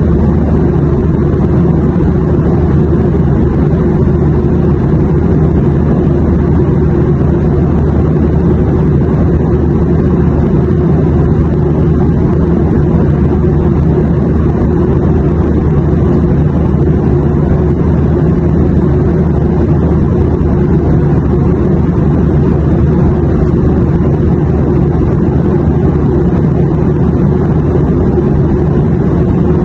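Steady, unchanging low rumble of an airliner cabin in flight: engine drone and airflow noise, with a few steady low hums and nothing sudden.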